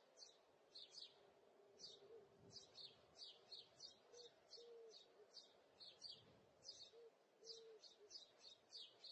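Faint bird chirping: short high chirps repeated irregularly, two or three a second, over a faint low hum.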